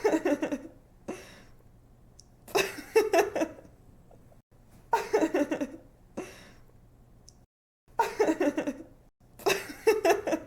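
A young woman laughing in five short bouts of quick "ha-ha" pulses, each about a second long, with pauses between them.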